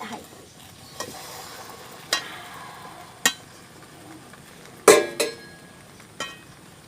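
A metal utensil knocking and scraping against a kadai as a pitha cake is flipped in oil, about six sharp clinks with the loudest pair about five seconds in, over a light sizzle of the frying oil.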